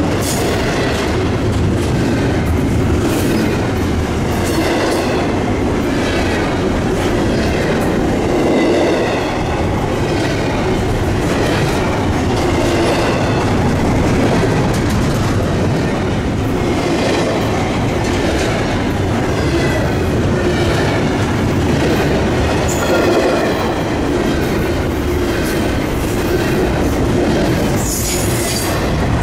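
Freight cars of an intermodal train rolling past, wheels clicking over rail joints in a repeating rhythm, with light steel wheel squeal over a steady rumble.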